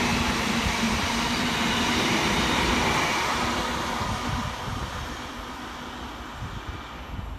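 London Northwestern Railway Class 350 electric multiple unit passing close by with a steady rumble of wheels on rail and a low hum, then fading from about four seconds in as it draws away.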